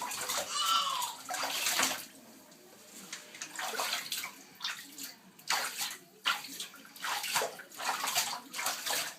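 Amazon parrot splashing in a shallow tub of warm water: a string of irregular splashes, quieter for a moment in the middle. A brief pitched call rises and falls about a second in.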